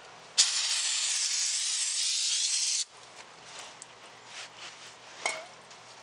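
Aerosol can of carburetor cleaner spraying in one steady hiss of about two and a half seconds, starting abruptly half a second in and cutting off sharply, to cut grease on a steel tractor rim. Afterwards there is faint rubbing and a single sharp click.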